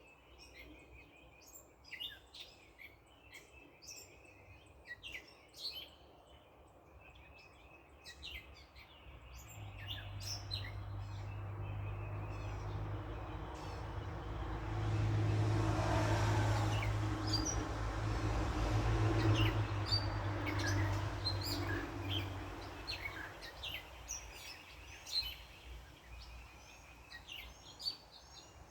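Songbirds chirping in a backyard while a car passes on a nearby road: the engine hum and tyre noise swell up in the middle, then fade away.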